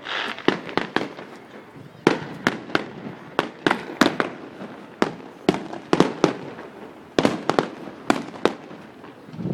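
Fireworks bursting in quick, irregular bangs, several a second, each a sharp report with a short fading tail; a fizzing crackle sounds right at the start.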